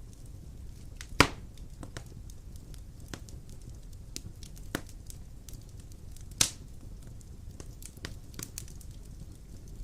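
Wood fire burning in a fireplace: a low steady rumble of flames with scattered crackles and two loud pops from the burning logs, about a second in and again about six seconds in.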